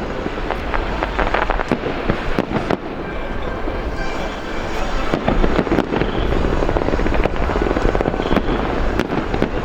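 Fireworks display: dense, rapid crackling and popping over a steady low rumble.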